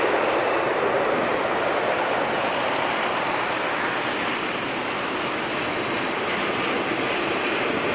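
Santa Fe train rolling past, a steady rushing noise of its cars on the rails with no distinct engine note or clicks.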